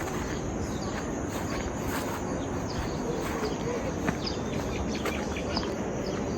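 Small birds chirping over a steady outdoor background hiss, with several short, falling chirps in the second half.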